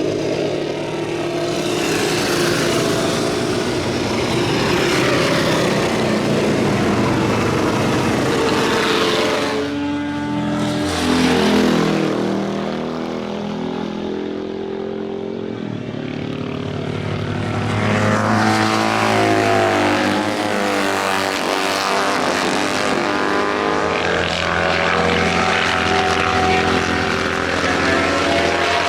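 Motorcycle engines running hard on a race circuit, several at once, their pitch sweeping up and down as they pass by. There is a dip about a third of the way in, then another loud pass builds up again.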